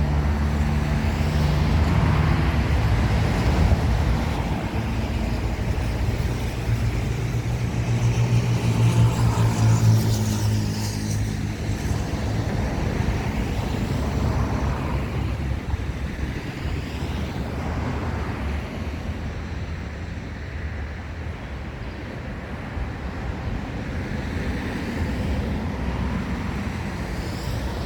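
Road traffic: cars and trucks passing one after another, with a steady low engine hum that is strongest in the first ten seconds.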